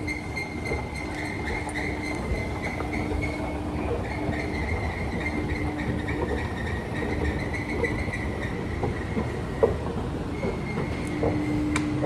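Passenger train running: a steady low rumble under a steady high whine, with a lower hum that cuts in and out and a few faint clicks.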